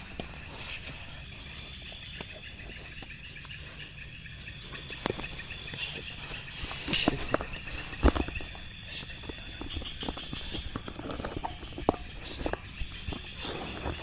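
Night insect chorus: several steady, pulsing high trills run on together. Scattered snaps and crackles sound over it, with two sharper knocks about seven and eight seconds in.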